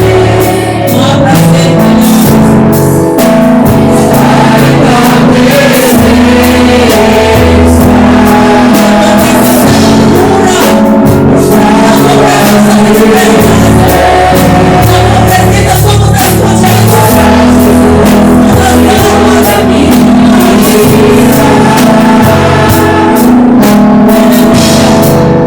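Live gospel worship music: a band with bass, drums and keyboard or guitar playing a song with singing, loud and steady.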